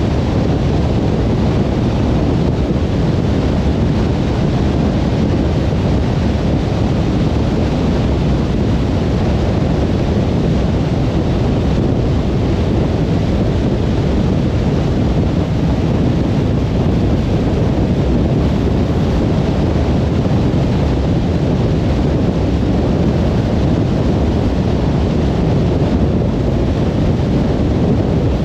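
A car driving at motorway speed: steady tyre, wind and engine noise, a low, even rumble without breaks.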